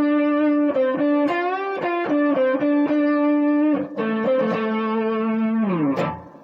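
Electric guitar playing a blues lead solo: quick picked notes with string bends, then a long held note about four seconds in that slides down in pitch and dies away near the end.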